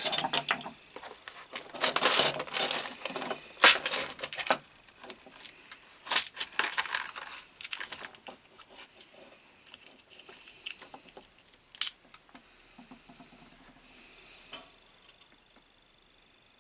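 Hands working on electrical cable and small crimp connectors at a workbench: irregular clicks, taps and rustling, busiest in the first few seconds, with one sharp click near the middle.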